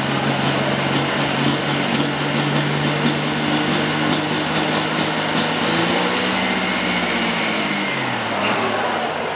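Super stock pulling tractor's turbocharged diesel engine running hard under load with a steady pitch, then dropping in pitch about six to eight seconds in as the engine slows on the track.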